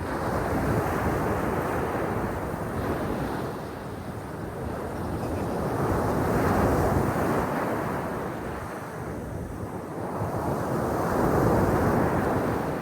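Black Sea surf: waves washing onto the shore, swelling and fading in three surges about five seconds apart.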